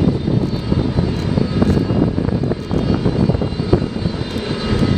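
The Antonov An-225 Mriya's D-18T turbofan jet engines running: a steady loud rumble with a constant high whine on top.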